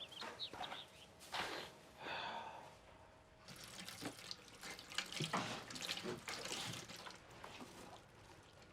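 Faint running water with drips and a few light knocks.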